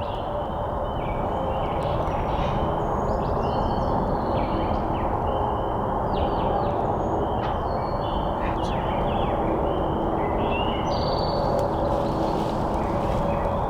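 Several small songbirds chirping and singing in short whistled notes and quick downslurred phrases, over a steady, even background hiss.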